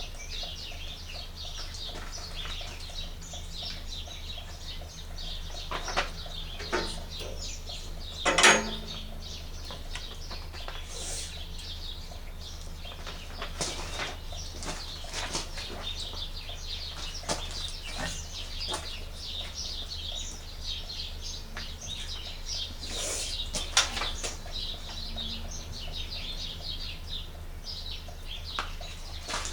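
Handling noises while unpacking and setting up a benchtop thickness planer: rustling of packaging with scattered clicks and knocks of parts, the loudest a knock with a brief ring about eight seconds in, over a steady low hum.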